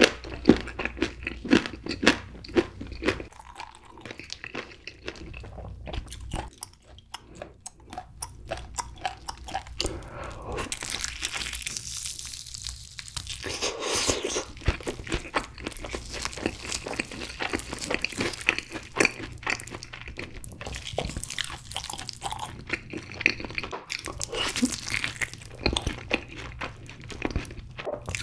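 Close-miked biting and chewing of yangnyeom (sweet-spicy sauced) fried chicken drumsticks dipped in cheddar cheese sauce: crunching of the fried coating mixed with wet chewing, easing off briefly about a quarter of the way through before the next bites.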